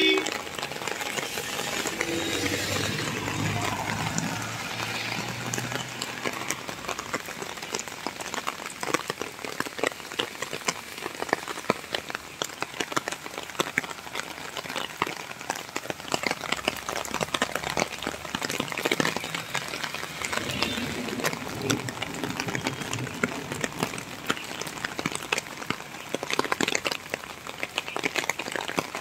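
Steady rain falling on paved ground and puddles: a dense patter of drops over a wash of noise. A faint low hum runs under it over the first few seconds.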